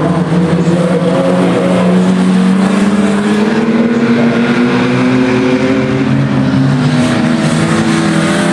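Several banger racing cars' engines running hard and revving together, their overlapping engine notes rising and falling as the cars go round the track.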